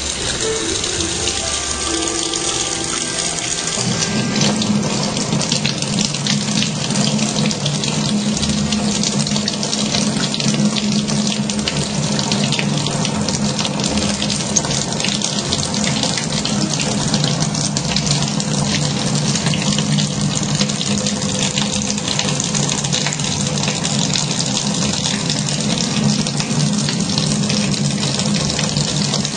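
Water running steadily from a tap, with a low steady hum that joins in about four seconds in.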